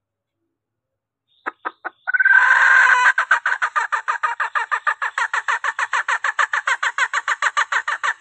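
Female junglefowl calling, the hen's call that draws in cocks: three short clucks, a drawn-out call, then a long run of rapid clucks, about seven a second.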